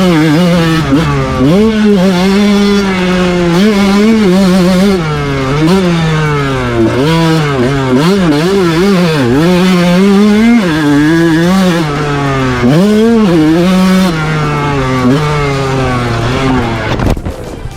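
A 125 cc two-stroke motocross bike's engine under hard riding, its pitch rising and dropping again and again as the throttle is opened and shut through the turns and gear changes. The sound breaks off abruptly near the end.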